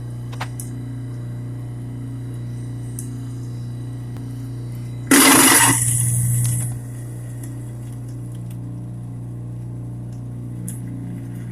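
Garbage disposal running with a steady low hum. About five seconds in, a sudden loud rushing noise comes in, eases after half a second and stops about a second and a half later.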